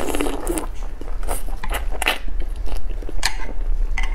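Close-miked bite into a pan-fried shengjianbao bun, then chewing with wet, crackly mouth sounds and a few sharp clicks.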